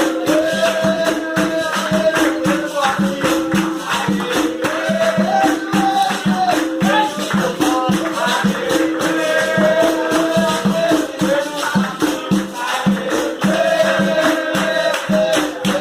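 Capoeira roda music: a berimbau with its caxixi rattle and a pandeiro keeping a steady, repeating rhythm, with singing over it.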